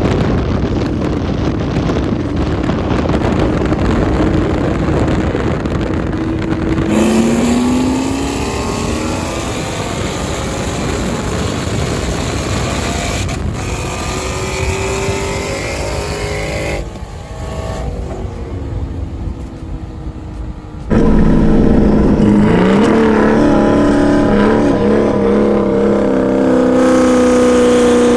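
Modified Mustang V8 engines running hard under acceleration in a roll race, the engine note climbing in pitch several times. The sound changes abruptly twice, dropping in level about two-thirds of the way in and then becoming loudest for the last quarter, where a hard pull rises steadily.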